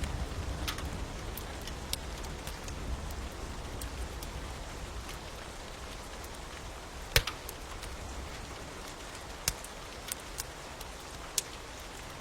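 Steady rain hiss with a wood fire crackling over it: scattered sharp pops, the loudest about seven seconds in and several more near the end. A low rumble in the first few seconds dies away.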